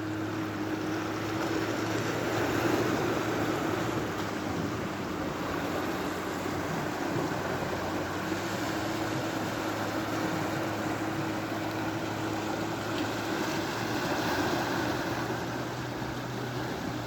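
Sea waves washing, with a steady low engine hum under them that shifts slightly higher near the end.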